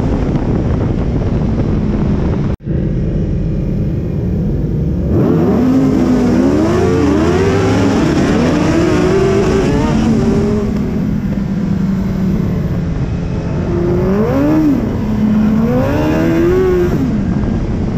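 Suzuki Hayabusa streetfighter's inline-four engine under way, heard from an onboard camera over a heavy rush of wind. The engine's pitch climbs and falls again and again as it revs. The sound drops out for an instant about two and a half seconds in.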